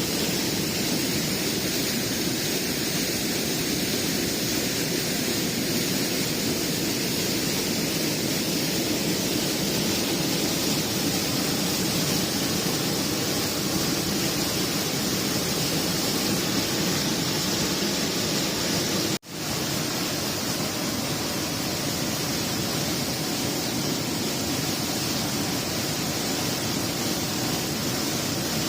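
Steady rushing noise with no distinct events, cutting out for an instant about two-thirds of the way through and then carrying on unchanged.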